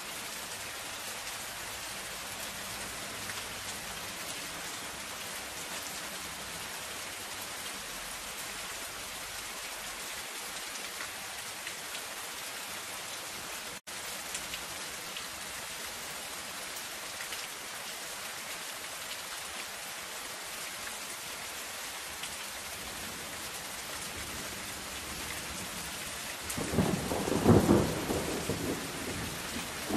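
Steady soft rain pattering on a zinc sheet roof. About 26 seconds in, a rolling rumble of thunder comes in and is the loudest sound. There is a split-second gap in the sound about halfway through.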